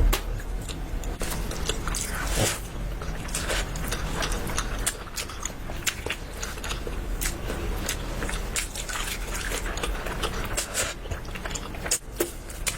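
Close-up chewing and biting of food: a run of irregular crunchy, wet clicks and smacks.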